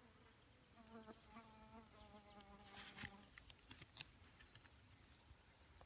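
Faint buzzing of a flying insect, off and on for the first three seconds, with a few faint ticks after it.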